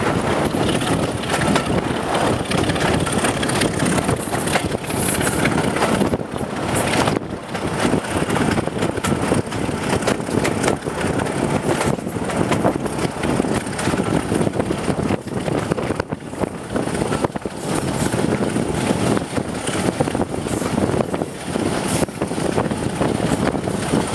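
Moving passenger train running along the track, heard from a carriage window, with heavy wind buffeting the microphone. The steady rumble is full of quick irregular flutters and rattles.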